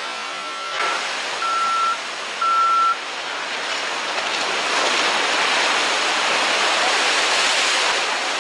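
Three short, high, steady beeps in the first three seconds, over a rushing noise that swells and then stays strong.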